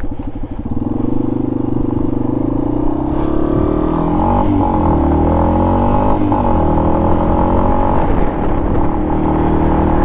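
Dual-sport motorcycle engine pulling away, its pitch rising and dropping back at two gear changes within the first six seconds, then running at a steady speed.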